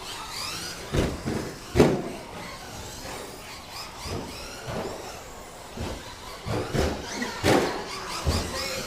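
Radio-controlled short course racing trucks running on the track: faint high motor whines rising and falling, with several sharp knocks, the loudest about two seconds in and a cluster near the end.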